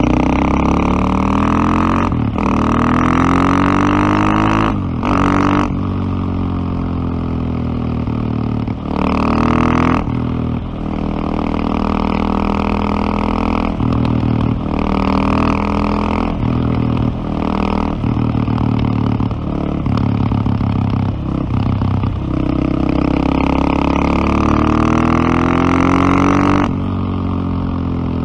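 Single-cylinder KTM motorcycle engine under way, its pitch climbing and falling again and again with brief breaks as the throttle is opened and closed.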